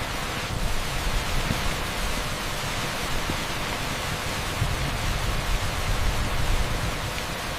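Heavy downpour of rain on an asphalt street, a dense, steady hiss with a low rumble underneath and no single drops standing out.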